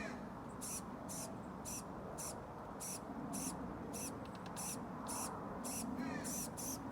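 Young brown-headed cowbird begging: a steady run of short, high-pitched calls, about two a second, over a low background rumble.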